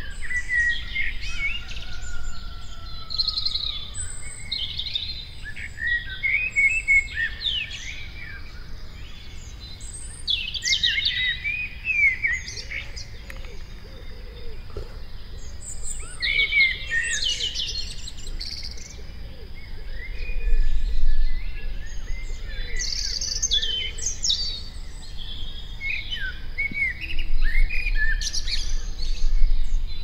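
Several songbirds singing, with chirps and warbled phrases coming and going. A softer, low-pitched call repeats through the middle, and a low rumble swells twice, about two-thirds of the way in and near the end.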